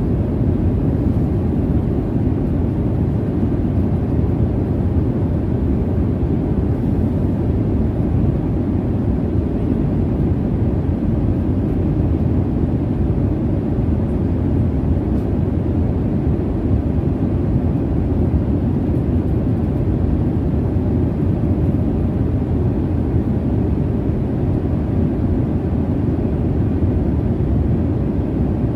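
Jet airliner cabin noise in cruise: a steady, low, even rumble of engine and airflow, with no changes.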